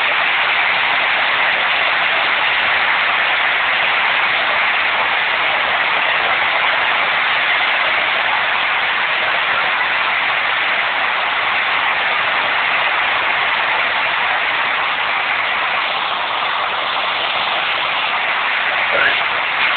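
Heavy rain pouring down in a steady, loud hiss: a hard downpour.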